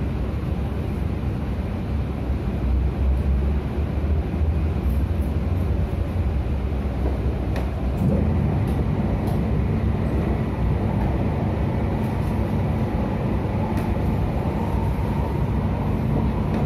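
MTR Tung Chung line train running at speed, heard from inside the carriage as a steady rumble of wheels on rail. About halfway through, the sound changes as the train runs out of a tunnel into the open, and a faint steady whine comes in.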